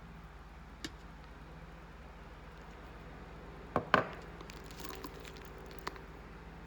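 A few sharp clicks and knocks over a low steady hum, the loudest a pair close together about four seconds in.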